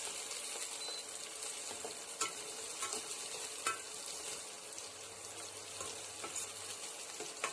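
Chopped small onions sizzling in hot oil in a kadai as they are stirred, with a few sharp clinks of the spoon against the pan.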